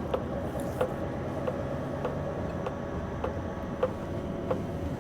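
Scania V8 diesel of a heavy low-loader lorry running steadily, heard from inside the cab. A regular sharp tick sounds about one and a half times a second over the engine.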